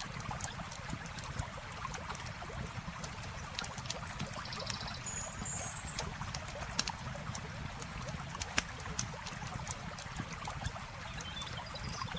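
Campfire crackling and popping in short sharp snaps over the steady rush and trickle of a flowing river. A few faint high chirps come about halfway through and again near the end.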